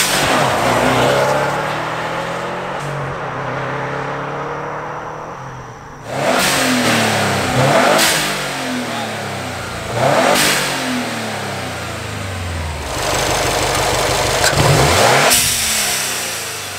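Subaru WRX STI's turbocharged 2.5-litre flat-four revved in several blips, the revs falling away after each one. A sharp hiss rises at each lift-off, typical of the newly fitted Turbosmart Kompact blow-off valve venting.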